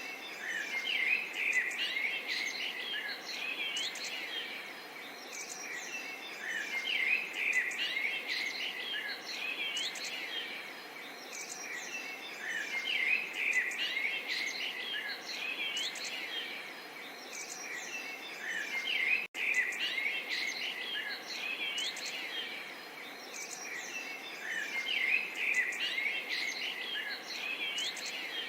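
Small songbirds chirping and singing in quick repeated phrases over a steady, light babbling of water. The sound cuts out for an instant about two-thirds of the way through.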